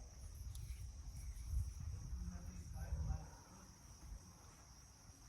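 A steady high-pitched insect chorus, like crickets, over an uneven low rumble that swells twice.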